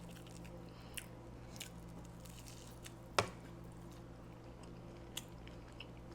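Quiet chewing of food with a few scattered wet mouth clicks and squishes, the sharpest about three seconds in, over a steady low electrical hum.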